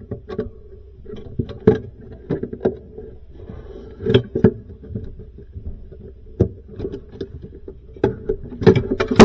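Irregular clicks and knocks of hands handling freezer wiring and plastic connectors, a cluster of louder ones near the end, over a steady low hum.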